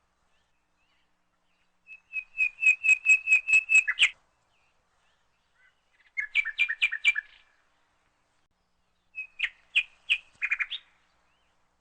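A bird singing: three short phrases of rapid, evenly repeated whistled notes, with pauses of about two seconds between them.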